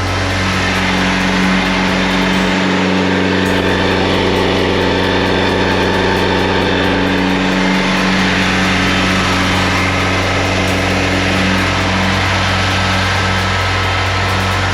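Boat's 1992 OMC inboard engine running steadily at idle with an even low hum.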